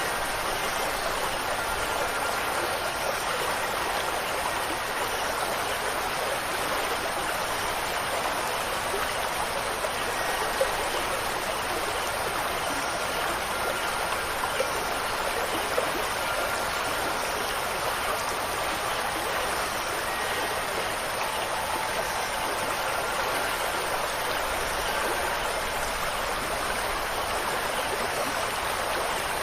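Steady rush of running water, with a few faint wind chime notes ringing now and then.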